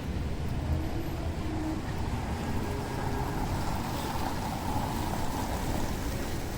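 Rainy city street ambience: a steady low rumble of traffic, with a hiss that swells and fades in the middle.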